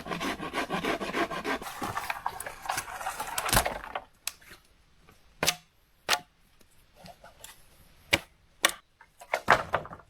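Dry dead wood being handled and broken: a dense crackling rustle of twigs ending in a loud crack, then several separate sharp snaps.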